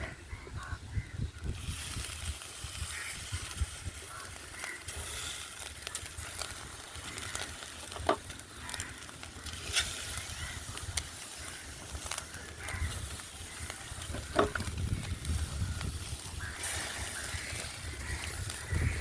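Food sizzling in a cooking pot, a steady hiss, with a few sharp clicks of a utensil against the pot.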